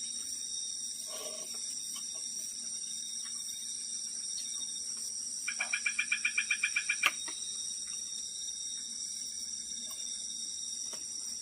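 Night insect chorus, a steady high-pitched drone at several pitches. About halfway through, an animal call cuts in: a rapid run of about a dozen evenly spaced chirps lasting about a second and a half.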